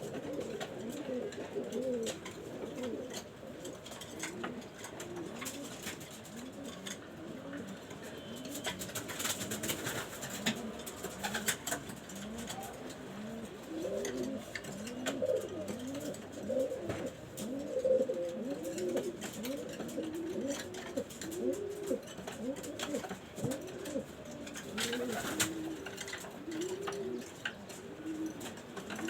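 Pigeons cooing: several birds overlapping in a continuous run of low, arched coos. Scattered sharp clicks and rustles come through about a third of the way in and again near the end.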